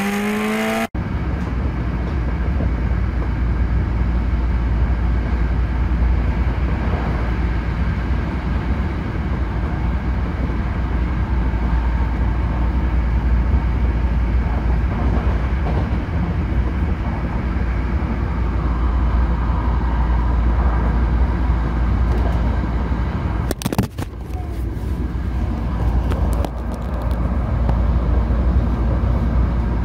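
Hankyu limited express train running at speed, heard from inside: a steady low rumble with running noise over it, and a brief sharp rush of noise about two-thirds of the way through. It opens with about a second of rising tones from an intro jingle before a cut.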